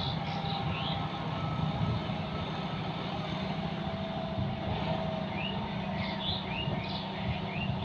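John Deere 5210 tractor's diesel engine running steadily while working a rotavator in mud, a continuous low drone. Short high chirps sound briefly near the start and several more from about five seconds in.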